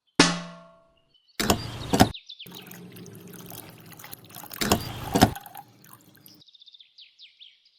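Water splashing and pouring, heard in several short cut segments with two louder bursts. It opens with a brief ringing tone that fades within about half a second.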